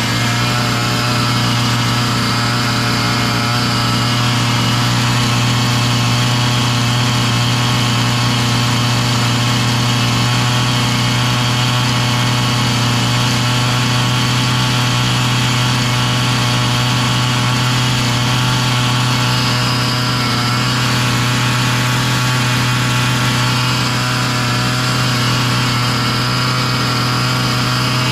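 Husqvarna 445 two-stroke chainsaw engine running steadily at idle without the choke, idling way too fast: the idle speed needs adjusting down.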